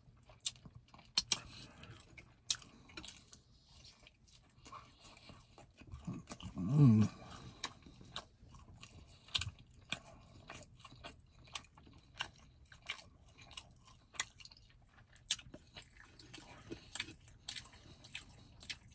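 Close-miked mukbang eating: a person chewing and smacking on fried meat and rice, with many small wet mouth clicks and finger-licking. About seven seconds in there is a short, louder hum of the voice.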